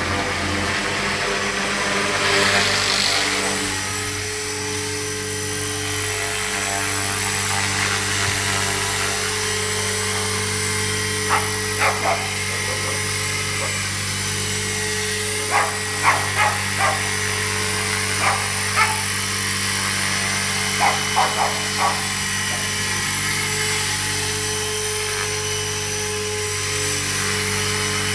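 Dog barking in short bursts of two to four barks, in several groups through the middle, over a steady mechanical hum from a motor or engine.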